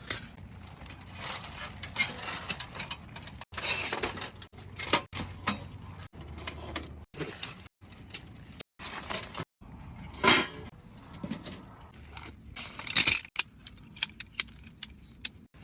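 Camping gear being handled: a run of clinks, rattles and knocks, heard as short clips that cut off abruptly.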